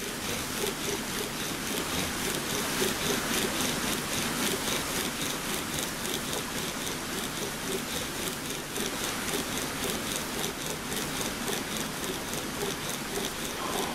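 Bow drill worked hard for an ember: the wooden spindle grinding in the hearth board with steady, rhythmic back-and-forth strokes.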